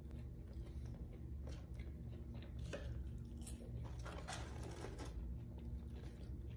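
A person chewing French fries with soft, scattered crackles as fingers rummage in the paper fry carton.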